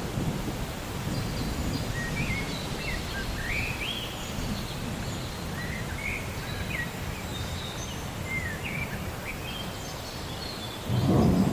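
Steady rain and a low rumble of thunder, with birds chirping over it. Near the end a louder roll of thunder swells up.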